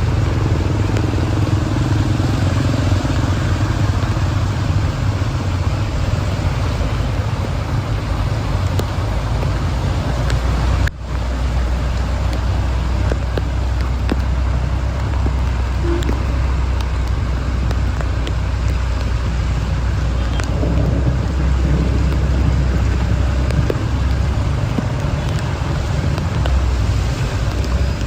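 Steady road and engine noise of a vehicle travelling through rain, a continuous rumble with a hiss on top. It breaks off for an instant about eleven seconds in and comes back with a deeper low rumble.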